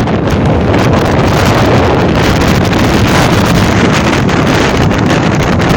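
Strong wind blowing and buffeting the microphone, a loud, steady rush with a low rumble.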